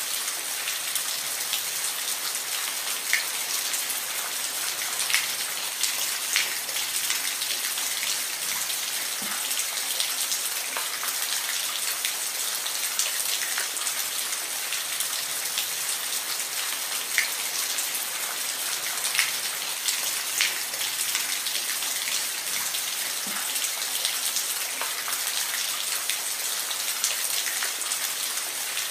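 Steady rain falling, a constant hiss with scattered sharp drips and drop ticks.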